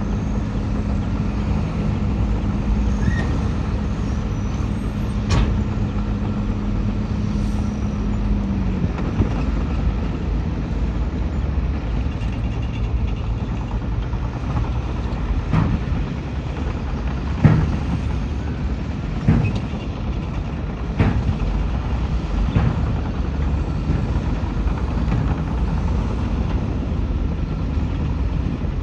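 Heavy diesel earthmoving machinery running steadily. A held engine tone drops away about nine seconds in, and several sharp metallic clanks come through the second half.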